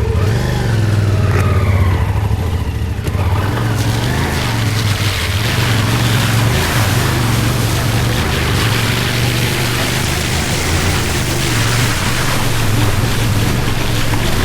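CFMoto 450MT parallel-twin motorcycle engine running at steady low revs, with rushing, splashing water growing louder from about four seconds in as the bike pushes through a deep water crossing.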